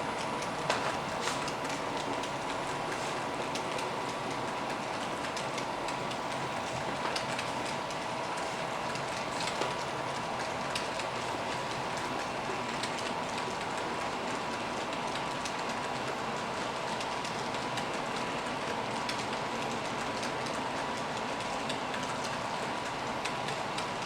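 Cars of a Union Pacific coal train rolling past: a steady rail noise with scattered clicks of wheels over the track.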